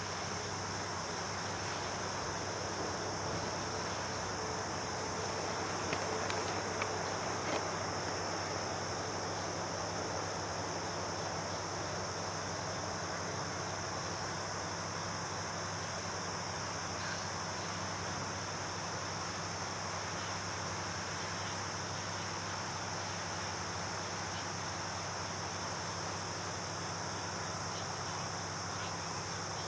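Steady chorus of insects: a continuous high-pitched trilling over a constant background hiss and low hum.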